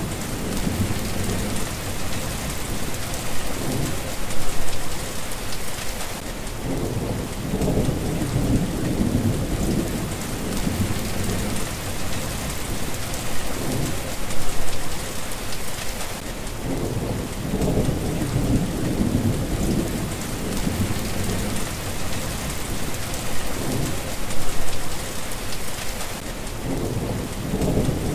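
Steady rain falling, with low rumbles of thunder that swell and fade about three times.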